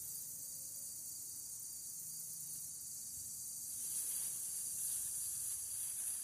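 Steady high-pitched chorus of insects droning in the garden, with a rustling noise joining about four seconds in.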